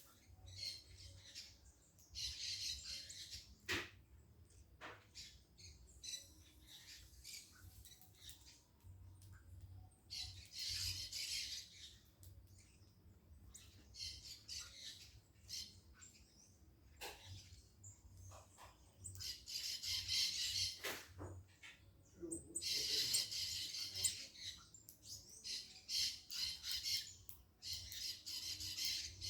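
Birds calling in repeated high-pitched bouts of about one to two seconds each, five or so times, with a few short sharp clicks in between.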